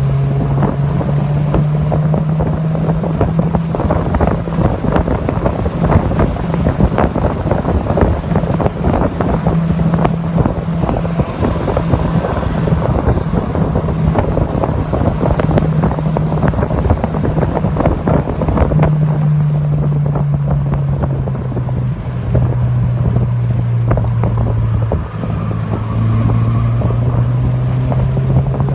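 Mazda MX-5 Miata (NC) engine running hard at a fairly steady pitch on a racetrack, heard on board with heavy wind buffeting on the microphone. The engine note dips and recovers a couple of times in the last third, as with lifting off and gear changes.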